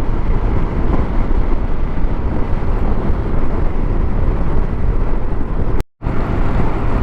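Steady wind rush and running noise of a TVS Scooty Zest scooter ridden at highway speed, heard from the rider's microphone, with a low engine hum under it. The sound cuts out for an instant about six seconds in, then resumes.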